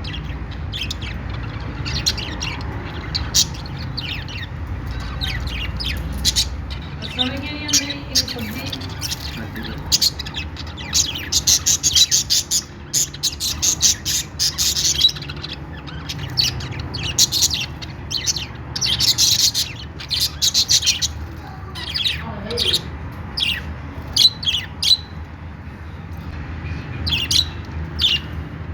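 Budgerigars chirping and chattering, with many quick high chirps that come thickest in busy spells around the middle of the stretch, over a steady low hum.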